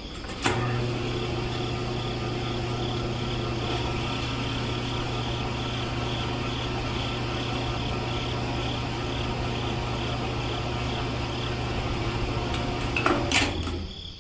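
Small electric motor running steadily with an even hum, starting about half a second in and cutting off near the end.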